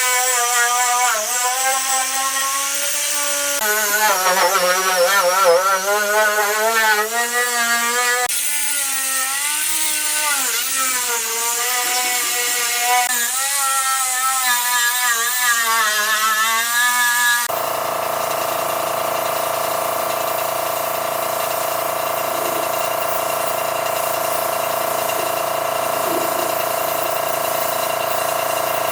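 Hand-held power tool running, its pitch wavering up and down as it works. About two-thirds of the way through, it cuts abruptly to a different, steady machine hum with hiss.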